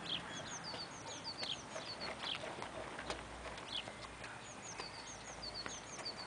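Small birds chirping: quick high chirps in runs of two or three, repeating every second or so, with a few soft ticks among them.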